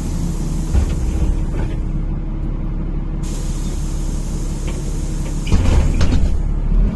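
NefAZ-5299 city bus idling at a stop, heard from inside: a steady low engine hum with hissing of compressed air from the brakes and pneumatic doors. About five and a half seconds in there is a louder rush of air.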